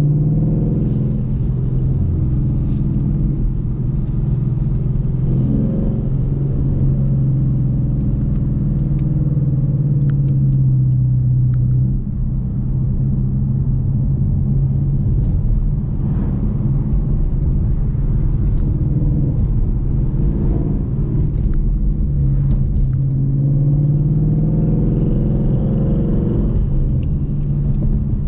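A car's engine and road noise while driving, the low engine note rising and falling, with a couple of brief dips in loudness midway.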